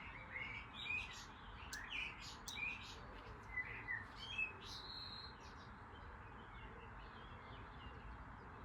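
Birds chirping faintly: a string of short chirps and quick whistled sweeps through the first half, fading out over a faint steady background hiss.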